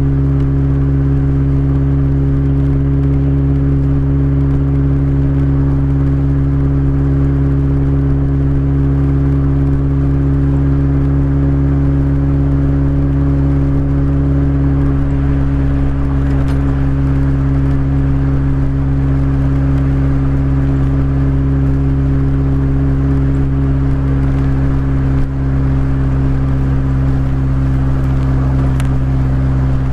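Toyota Corolla's 1.8-litre 7A-FE four-cylinder engine running at steady, unchanging revs through headers and a Magnaflow exhaust: an even exhaust drone.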